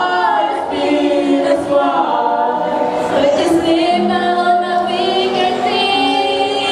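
A group of voices singing a cappella, several pitches sounding together in sustained, gliding notes.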